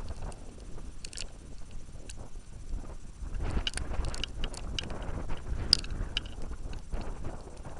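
Storm wind buffeting the microphone as an uneven low rumble, with scattered light ticks and taps throughout.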